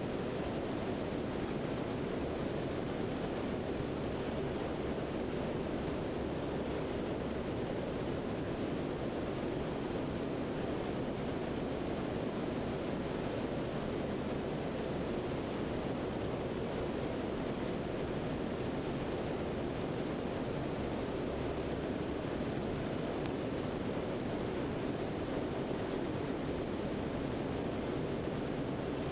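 Steady rushing noise of a C-130 in flight, heard from on board: airflow and engine noise blended into an even roar with no changes.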